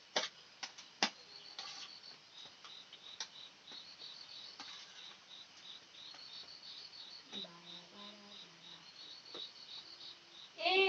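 Crickets chirping in a steady run of quick, evenly spaced high-pitched pulses, with a few sharp clicks in the first couple of seconds.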